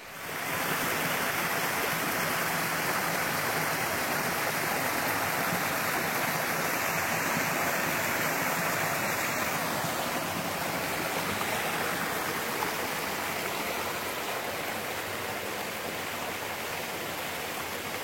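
A stream rushing steadily, a continuous watery hiss that eases slightly after about ten seconds.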